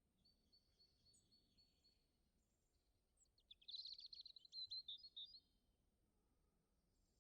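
Small songbird singing outdoors: a run of thin high notes, then about three seconds in a louder, rapid chattering trill lasting around two seconds.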